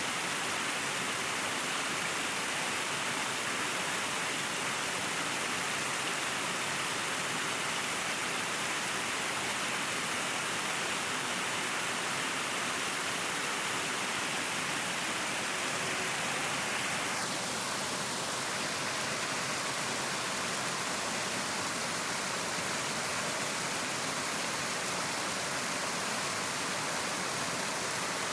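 River water flowing in a steady, even rush, its tone shifting slightly about two-thirds of the way through.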